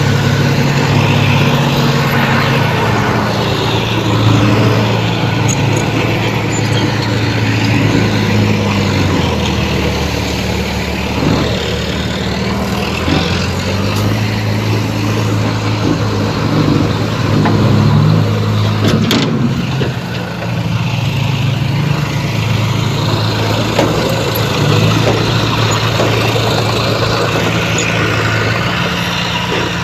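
Heavy diesel engine of earthmoving machinery working under load, its revs stepping up and down several times as it pushes fill. There is a single sharp knock about two-thirds of the way through.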